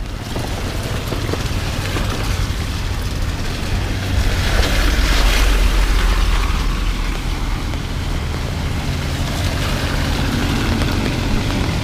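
A motor vehicle's engine running close by, a steady low rumble that swells about four seconds in, over a hiss of rain.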